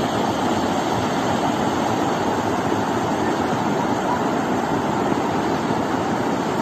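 Floodwater rushing in a flash flood: a steady, unbroken wash of water noise.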